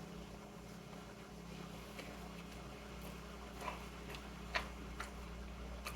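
Faint chewing with a few soft mouth clicks in the second half, over a steady low electrical hum.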